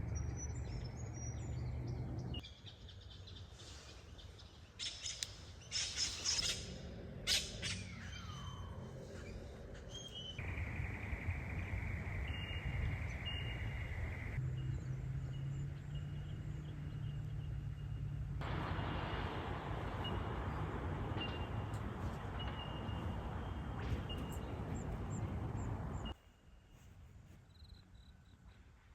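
Outdoor ambience made of several short clips that change abruptly every few seconds, over a steady low noise; birds chirp and call between about five and eight seconds in.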